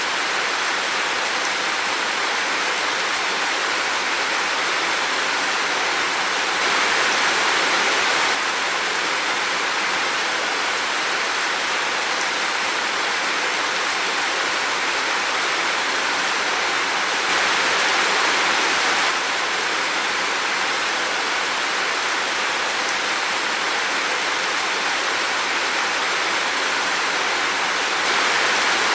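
Heavy rain falling in a steady, even hiss, briefly a little louder for a second or two about every ten seconds.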